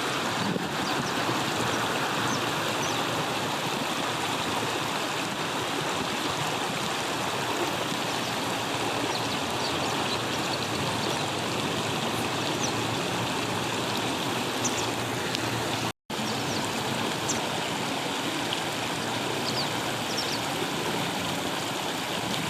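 River water flowing over stones, a steady rushing noise, with a few faint short high chirps scattered over it. The sound cuts out for a split second about sixteen seconds in.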